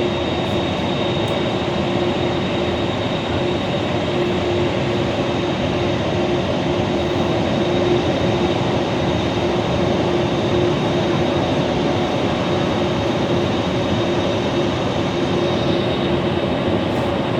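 Steady engine drone with a constant low hum and a faint high whine, heard from inside a bus cabin.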